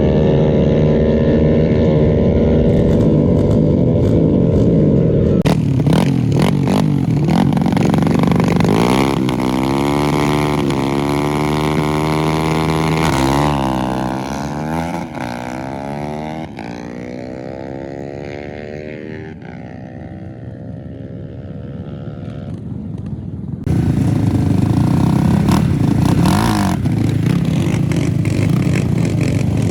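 Drag-racing motorcycle engines revving at the line, then a bike launching and accelerating away, its pitch climbing in steps through the gear changes as it fades into the distance. About 23 seconds in the sound jumps abruptly back to loud close engine noise.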